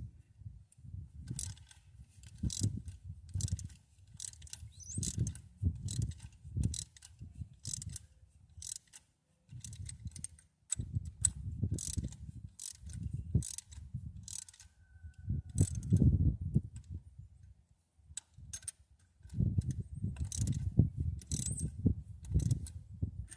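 Socket ratchet being worked on a V8 engine's valve train in short repeated strokes: bursts of ratcheting clicks with a low rumble under each, a second or so apart, as the rocker arms are tightened and adjusted.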